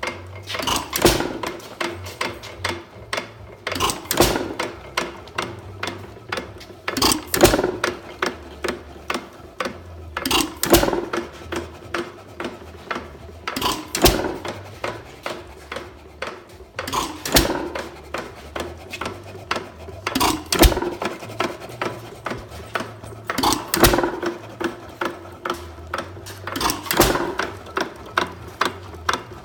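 A 1 3/4 hp Acme hit-and-miss engine running with no load. It fires with a loud bang about every three seconds and coasts between shots with a quick, even clicking of its valve gear. The widely spaced firing is the governor holding the exhaust open until the flywheels slow.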